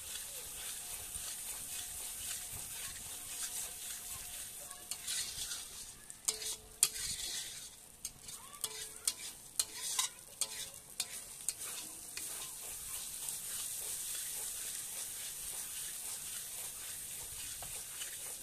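Masala paste sizzling in oil in a wok while a spatula stirs it, frying the masala down (koshano) for a chicken curry. A run of sharp scrapes and taps of the spatula against the pan comes between about five and twelve seconds in.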